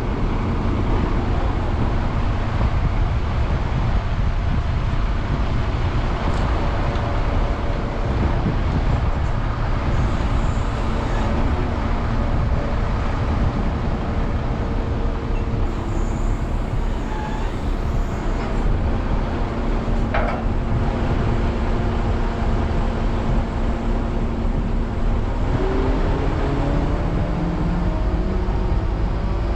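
A large crane's diesel engine running steadily under load during a lift, revving up near the end. A single short knock is heard about two-thirds of the way through.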